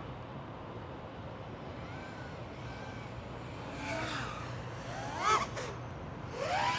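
Brushless motors and propellers of a 5-inch FPV quadcopter whining, the pitch sweeping up and down with throttle changes about four and five seconds in and again near the end, over a steady low hum.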